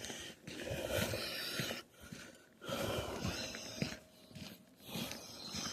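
Footsteps crunching through deep fresh snow, coming in uneven bursts with short pauses between them.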